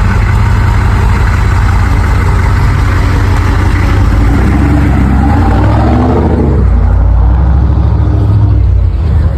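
Vehicle engine running at idle, with a rev about halfway through that rises and falls in pitch.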